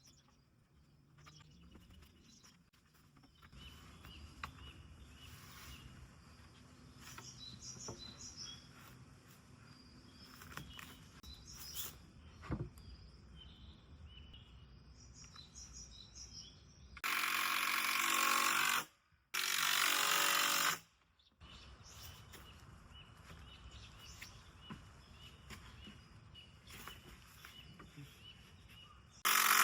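Faint outdoor background with birds chirping, then a handheld power tool run in two bursts of about two seconds each past the middle, with a third starting right at the end, as in driving screws while assembling 2×4 lumber.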